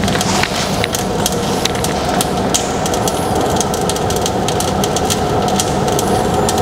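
Freshly lit oak fire burning hard inside a closed wood-burning fireplace stove: a steady rushing roar of air drawn through the firebox, sounding like a fan running although the stove has none, with many small crackles.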